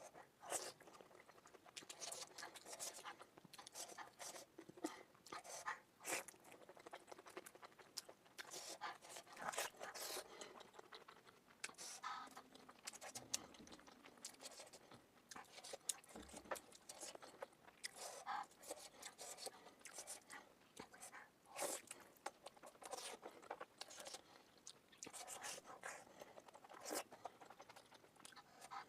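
Mouth sounds of someone eating momo dumplings: chewing and biting smacks in quick, irregular succession, sped up to double speed.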